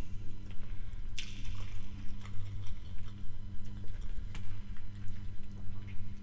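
Close-up wet mouth sounds of someone chewing food, with sharp lip smacks about a second in and again past four seconds, over a steady low hum.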